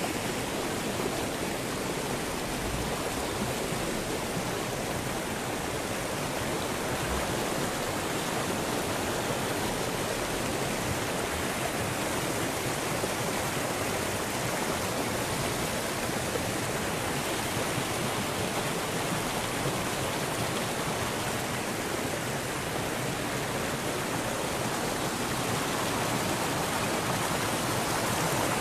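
Floodwater from overflowing hillside drains flowing fast and falling across a road, a steady, even rush of water with no breaks.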